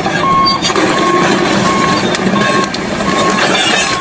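Vehicle reversing alarm beeping: one steady tone repeating evenly, about six beeps, over steady engine and site noise.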